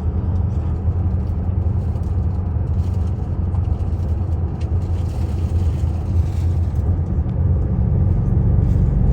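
Steady low rumble of a car moving along the road.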